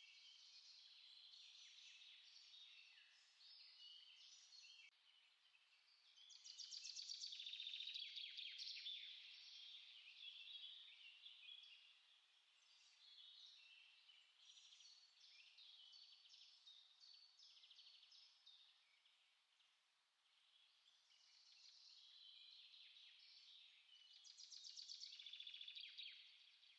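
Faint songbirds singing and chirping, several calls overlapping throughout, with a louder rapid trill about six seconds in and again near the end.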